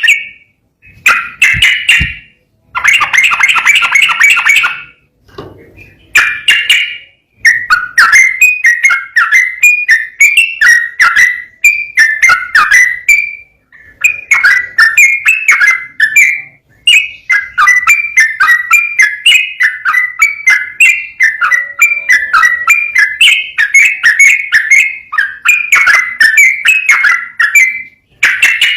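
Yellow-vented bulbul (trucukan) singing a fast run of bubbly whistled notes. Short phrases with brief pauses come first, then a near-continuous torrent from about seven seconds in.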